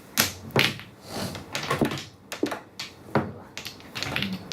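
Mahjong tiles clacking on the table and against each other in a string of irregular sharp knocks, about a dozen, as the tiles are played.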